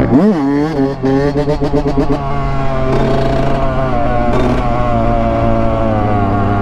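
Two-stroke dirt bike, a Yamaha YZ125, being ridden: the engine blips up and drops back right at the start, then runs at steady high revs with a slight rise and fall in pitch. A light rattle comes through about a second in.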